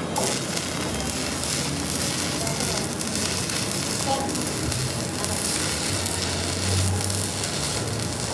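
Electric arc welding on the steel differential tube: a steady crackling sizzle that strikes up abruptly at the start and holds without a break.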